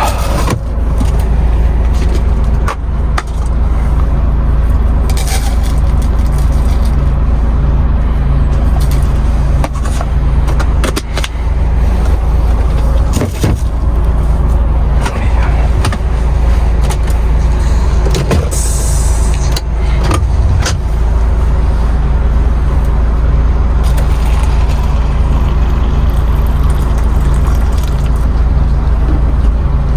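Truck engine running with a steady low drone, with scattered clicks and knocks over it.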